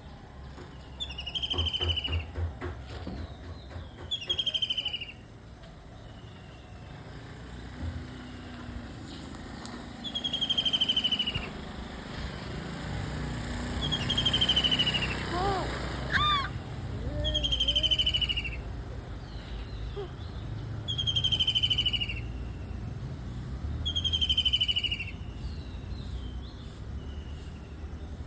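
A kingfisher calling again and again: a single falling note about a second long, repeated about seven times at intervals of a few seconds.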